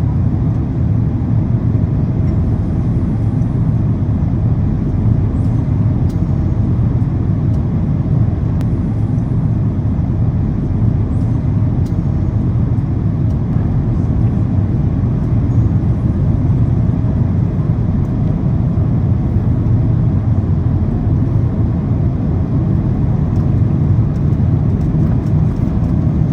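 Steady low drone of a Boeing 767-400ER's engines and airflow heard inside the passenger cabin during the descent on approach.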